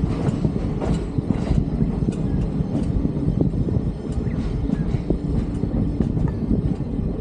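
Byron solar train, a solar-powered railcar, running along the track at speed: a steady rumble of wheels on rail with irregular sharp clicks scattered through it, heard from beside the carriage.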